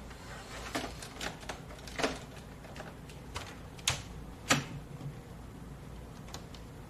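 Irregular light clicks and knocks, a dozen or so over a few seconds, the loudest two near the middle, over a low steady room hum.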